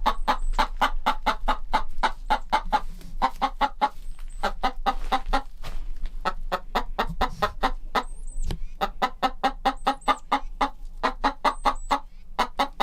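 Chickens clucking in a quick, steady run of short clucks, about five a second, with a few brief pauses.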